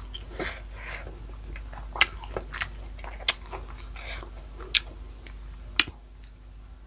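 A person chewing food, close-miked, with about five sharp wet clicks spread a second or so apart.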